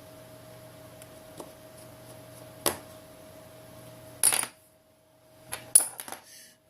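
Small hard objects clicking and clattering on a work surface, such as tools and phone parts being handled and set down: a sharp click about two and a half seconds in, a louder clatter just after four seconds, and a quick cluster of clicks near six seconds.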